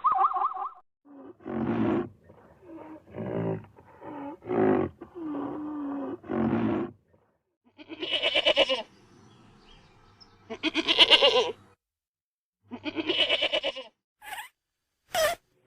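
Calls of a large animal: a run of about six short, low, pitched calls, then three long harsh calls of about a second each, with two sharp clicks near the end.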